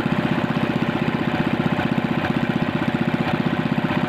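Engine idling steadily with a fast, even pulse.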